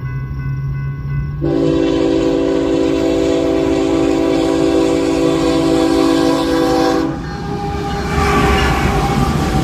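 Locomotive air horn sounding one long, steady chord of about five and a half seconds, cutting off sharply. It is followed by the rising rumble and clatter of the train's wheels as it passes close by.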